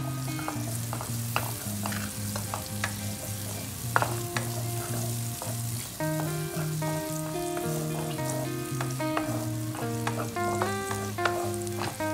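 Chopped shallots and sliced red chili sizzling in hot oil in a non-stick wok while being stirred with a wooden spatula, with occasional clicks of the spatula against the pan, the sharpest about four seconds in. Background music with held melodic notes plays throughout.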